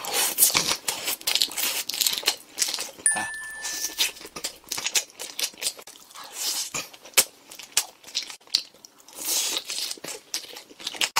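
Close-miked chewing of crispy fried kkanso shrimp in chili sauce: irregular wet crunching and crackling of the batter and shrimp tails. A short high electronic beep sounds about three seconds in.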